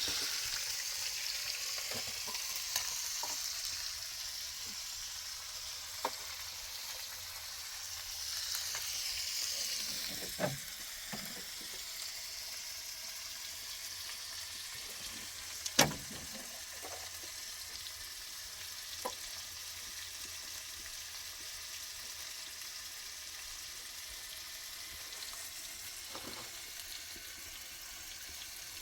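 Food frying in hot oil: a steady sizzling hiss that starts suddenly, with a few sharp pops, the loudest about halfway through.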